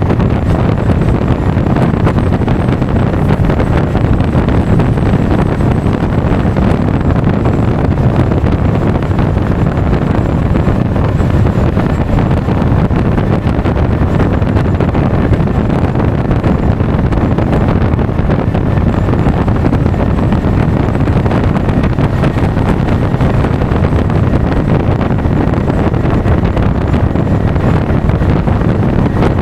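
Steady wind rushing over an action camera's microphone while riding a Honda Forza 350 scooter, with the scooter's running engine and road noise underneath.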